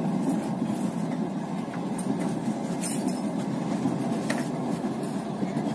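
Passenger train carriage running along the track, heard from inside: a steady rumble of wheels on rails with a few faint clicks.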